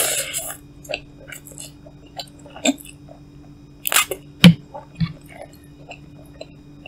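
A person chewing a mouthful of cup noodles close to the microphone: soft wet mouth sounds broken by a few short, sharp bursts, the loudest about four to four and a half seconds in.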